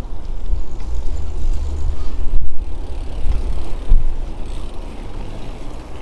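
Wind buffeting the microphone outdoors: a loud, gusty low rumble with two stronger gusts a little before halfway and about two-thirds of the way through.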